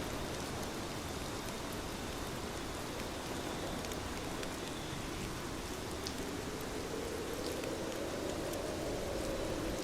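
Steady rainfall, an even hiss of rain with scattered sharp drop ticks, and a low swell building in the second half.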